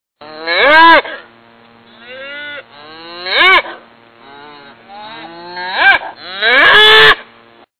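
Cow mooing: a series of loud calls that rise and fall in pitch, with quieter calls between them. The clip starts and stops abruptly.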